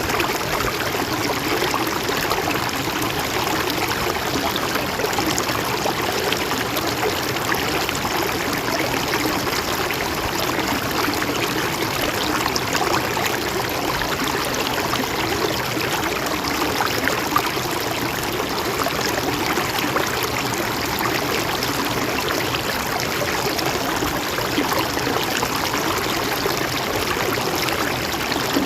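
Mountain stream running over rocks: a steady rushing and trickling with many small splashes and gurgles.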